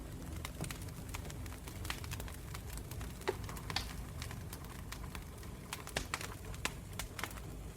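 Campfire burning, wood crackling and popping with irregular sharp snaps over a steady low rumble of the flames.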